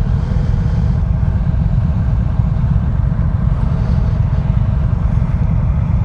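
Motorcycle engine running with a steady low rumble, picked up by the rider's own on-bike or helmet microphone.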